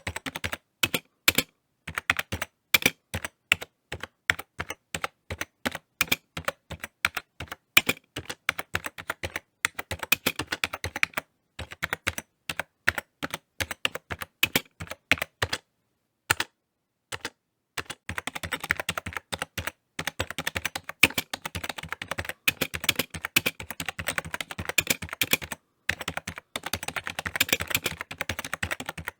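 Typing on a computer keyboard: irregular runs of key clicks, some keystrokes sharper than others, with brief pauses between bursts and a gap of about a second just past the middle before a faster, denser run.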